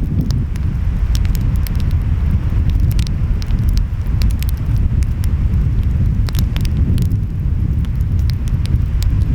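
Wood fire crackling and popping, with many sharp irregular snaps, over a steady low rumble of ocean waves and wind.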